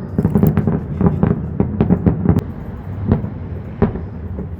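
Fireworks bursting in a rapid volley of sharp bangs and crackles over a low rumble, thinning to a few scattered pops near the end.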